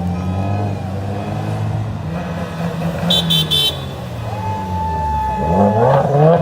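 Cars driving slowly past with engines running and honking: three short high beeps about three seconds in, then a horn held for about a second, and an engine revving up near the end.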